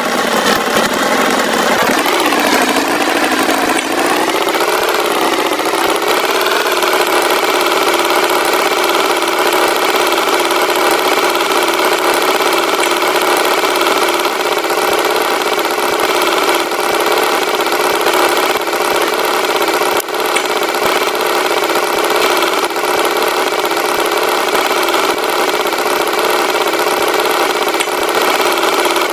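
Tractor engine running. Its pitch wavers up and down for the first few seconds, then settles into a steady idle.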